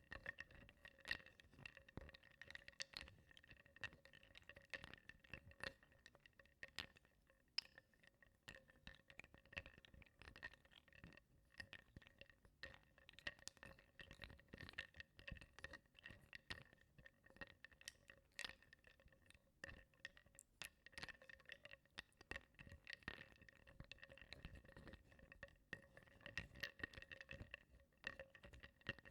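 Wooden blocks being stirred in a bowl of water, softly knocking and clinking against each other and the bowl in a dense run of small, irregular clicks, over a faint steady ringing tone.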